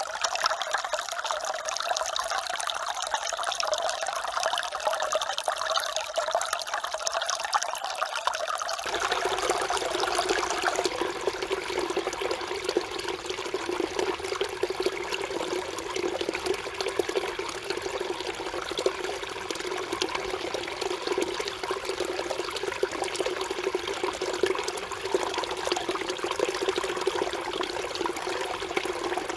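Mountain stream water running and babbling over rocks, a steady rush of water. About nine seconds in the sound changes to a deeper, fuller flow.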